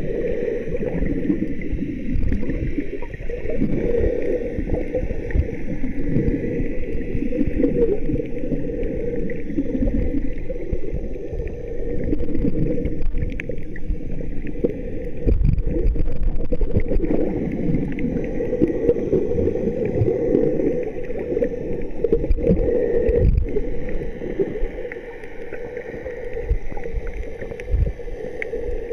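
Muffled water sloshing and gurgling with a low, uneven rumble, continuing throughout.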